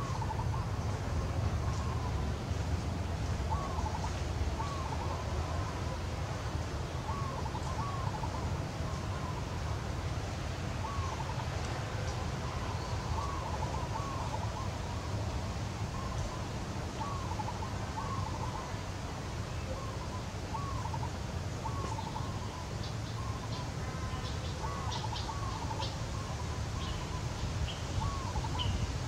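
A bird calling in a steady series of short, hooked notes, about one a second, over a steady low rumble. Near the end a few faint high chirps join in.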